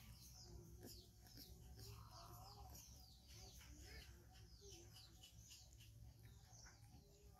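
Faint chirping of small birds: many short, high, falling chirps in quick succession.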